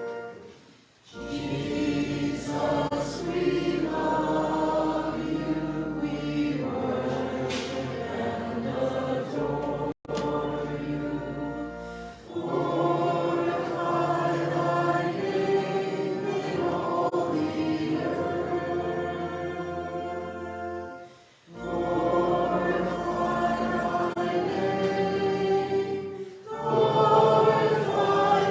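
A congregation singing a slow worship song in unison with instrumental accompaniment: long held notes in phrases, with brief pauses between phrases.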